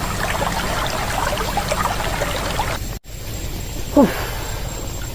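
Shallow stream water trickling and babbling over stones, with many short bubbling notes. About three seconds in it cuts to a steadier rush of water, and a second later a short, loud, falling sound rises above it.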